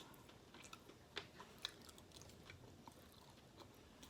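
Faint chewing of food: a few soft, scattered mouth clicks over near silence.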